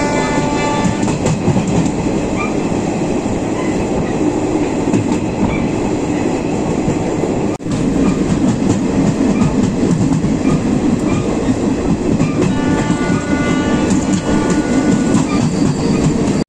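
Passenger express train running at speed on the rails, a steady rumble with wheel clatter. A held, high tone with several pitches sounds near the start and again from about twelve to fifteen seconds in.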